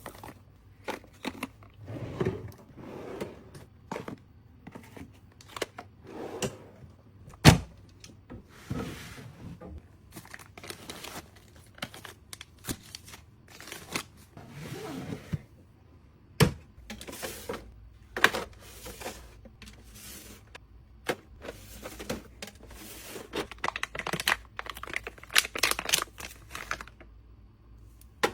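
Snack packaging being handled and items set down: a string of crinkles, taps and soft thunks, with one sharp knock about seven seconds in.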